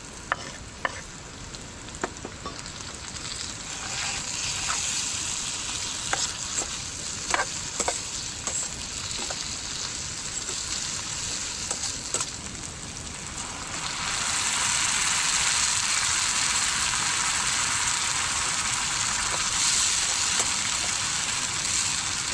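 Tomatoes frying in hot oil with onions and whole spices in a pan, a steady sizzle with the sharp clicks of a spoon against the pan. The sizzle grows clearly louder about two-thirds of the way through.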